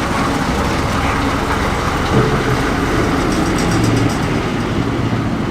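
A vehicle engine running steadily, a dense low rumble.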